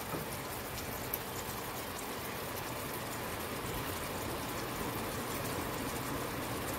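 Spices and chopped vegetables sizzling steadily in hot oil in a pan: turmeric, cumin and chilli powders being fried down with pointed gourd, the masala-frying stage of a fish curry.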